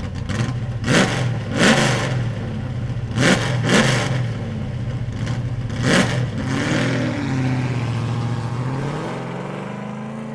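Car engine idling and blipped in short, sharp revs about five times, each rising and falling back to idle, then its note climbing steadily near the end.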